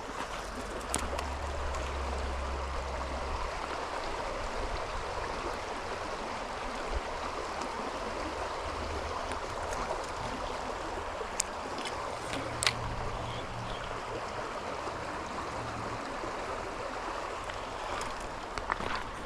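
Small creek running: a steady rush of flowing water. A few sharp clicks stand out, about a second in, twice past the middle and near the end.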